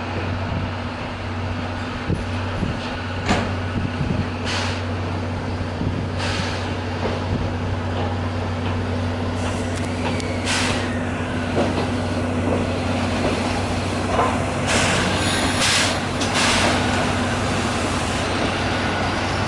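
Electric train standing at or pulling out of a platform: a steady low hum of its equipment, broken by several short hisses of compressed air from the brakes and doors.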